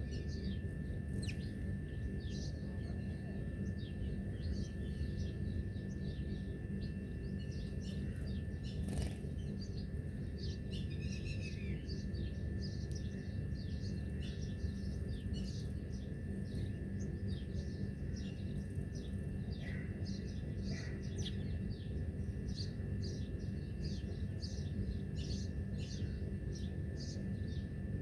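Many small birds chirping, a dense run of short, high-pitched chirps with now and then a longer falling note, over a steady low rumble and a faint steady high tone.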